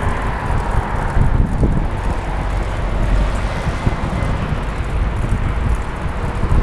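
Wind buffeting a helmet-mounted camera's microphone on a moving bicycle: a steady, loud rushing rumble.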